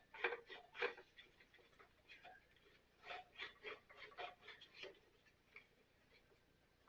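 Faint, irregular light clicks and taps, bunched in the first second and again in the middle, from hand work at close range.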